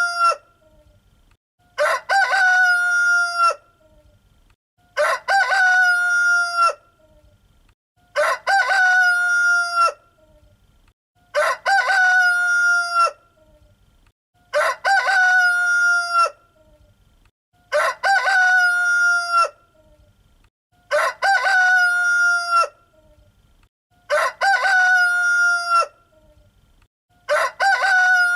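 A rooster crowing over and over, the same cock-a-doodle-doo repeating evenly about every three seconds, each crow lasting under two seconds.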